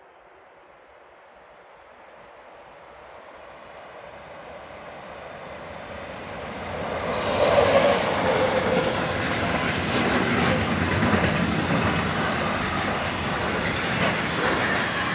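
Polish EU07 electric locomotive hauling a container freight train, getting steadily louder as it approaches and passing close by about seven to eight seconds in, its loudest moment. After it comes the steady rumble and clatter of the container wagons' wheels over the rail joints.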